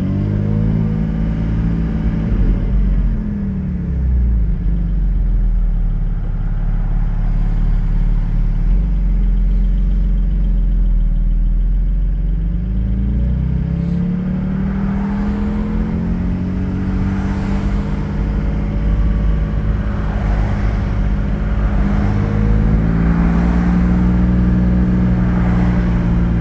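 Porsche 718 Cayman GT4's 4.0-litre flat-six with Soul over-axle exhaust pipes, heard from inside the cabin with the windows down while driving slowly in traffic. The engine note falls as the car slows near the start, rises as it picks up speed about halfway through, then holds fairly steady with another slight rise near the end.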